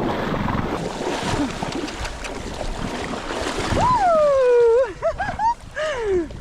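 Surf and wind rushing. Then, a little before four seconds in, a high voice gives a loud, drawn-out cry that falls in pitch, followed by a few short wavering calls and a final falling one.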